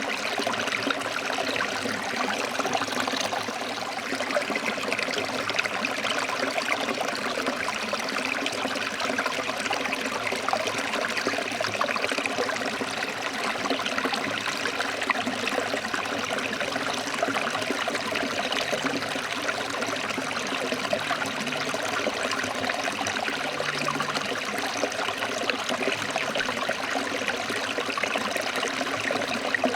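Stream water flowing and splashing over rocks: a steady rushing and babbling with no breaks.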